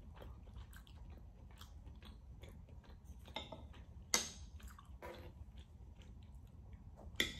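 A person chewing rare steak with the mouth close to the microphone: soft wet smacking and clicking sounds, with a few louder smacks about three and four seconds in and near the end.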